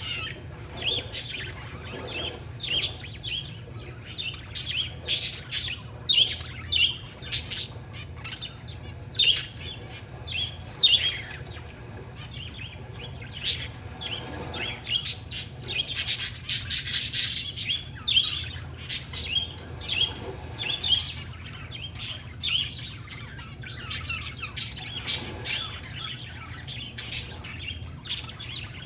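Parakeets and zebra finches chirping and chattering: many short, high calls that overlap, with a dense flurry about halfway through. A steady low hum runs underneath.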